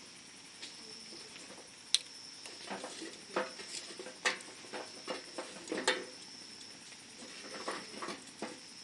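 Wood campfire crackling, with irregular sharp snaps and pops, thickest in the middle few seconds.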